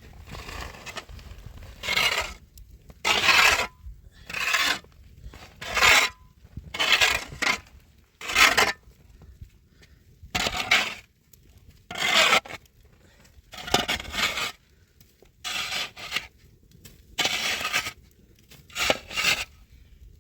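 Rhythmic rasping scrapes, about fifteen strokes of roughly half a second each, coming every second or so with a few in quick pairs.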